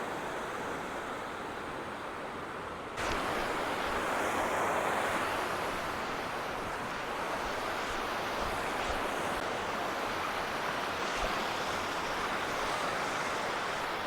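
Mountain waterfall and river rushing: a steady wash of falling water that jumps abruptly louder about three seconds in.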